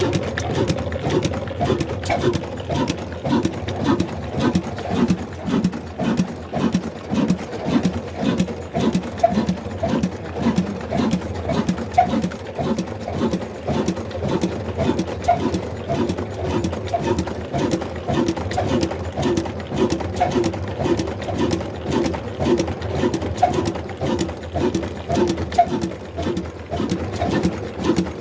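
Old black single-cylinder desi diesel engine of the Ruston Hornsby type running at slow, steady speed, each firing stroke a low, even beat at roughly two to three a second.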